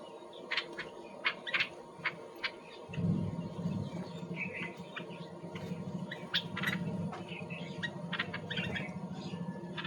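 Birds chirping and squawking in many short, sharp calls. A steady low hum starts suddenly about three seconds in and runs on underneath.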